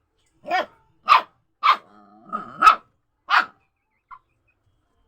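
A dog barking five times in quick succession, with a lower drawn-out sound between the third and fourth barks.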